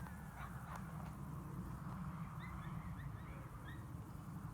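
Steady low outdoor rumble of wind on the microphone, with a handful of short, high bird chirps about halfway through.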